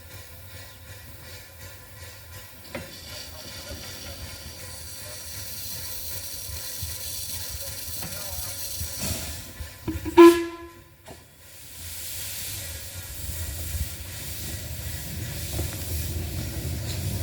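Bure Valley Railway steam locomotive No.8 hissing steam, the hiss building over the first few seconds. About ten seconds in comes a short, loud pitched blast, then a low rumble.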